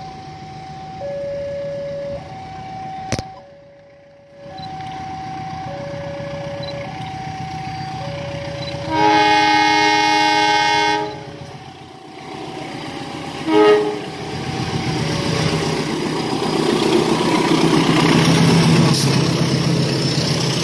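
Electronic level-crossing warning alternating between two tones, each held about a second. Then a CC 201 diesel-electric locomotive sounds its horn for about two seconds, gives a short second blast, and its engine and the train's wheels grow louder as it approaches and passes.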